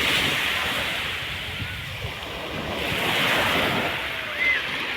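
Sea waves washing onto the beach, a steady surf hiss that swells twice, just after the start and again about three seconds in.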